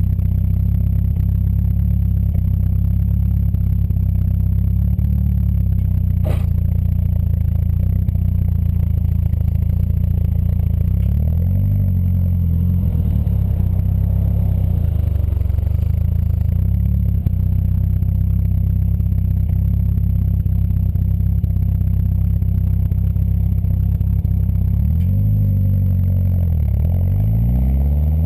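Peugeot 205 1.9's four-cylinder engine idling through an Inoxcar aftermarket exhaust, with short throttle blips about twelve seconds in and several more near the end, the last climbing into a rising rev. A single sharp click about six seconds in.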